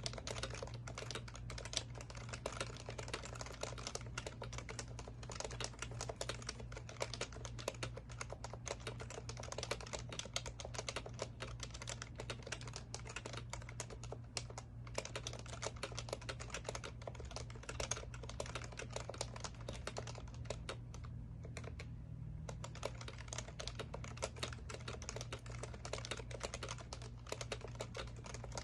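Steady, fast typing on an HHKB Professional Classic keyboard with Topre switches: a continuous stream of keystrokes with a short pause about three-quarters of the way through.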